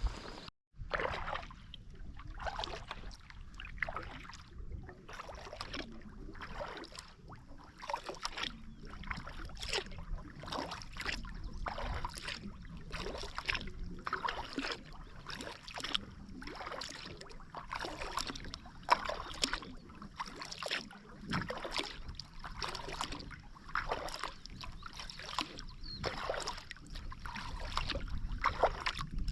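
Kayak paddle blades dipping and pulling through the water in a steady stroke rhythm, with small splashes and drips between strokes.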